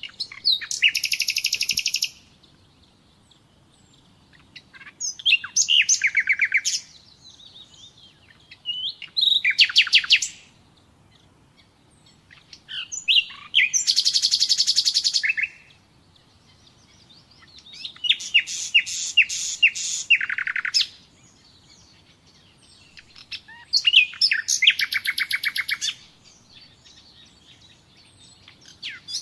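Common nightingale singing: a phrase about every four seconds, each a fast run of rapidly repeated notes lasting a second or two, with soft whistled notes in the pauses between phrases.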